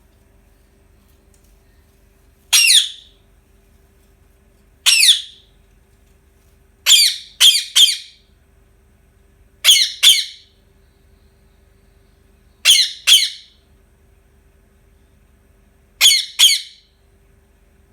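Indian ringneck parakeet squawking loudly and harshly in short repeated calls, roughly every two to three seconds: two single squawks, then a quick triple, then three doubled calls.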